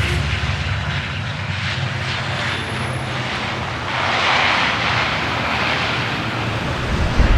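Steady rumble and rushing noise of a moving vehicle, swelling about four seconds in, with a short thump near the end.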